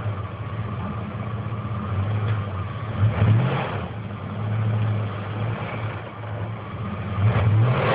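Quigley 4x4 Chevy van's engine working under load through a snow drift, running steadily and revving up briefly about three seconds in and again near the end.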